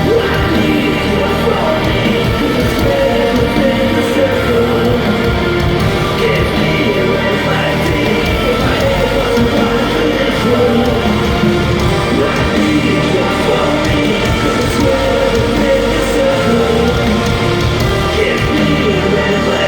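Live heavy rock band playing loud, distorted music through an arena PA, with singing and crowd noise, as picked up by a phone-type recording in the audience.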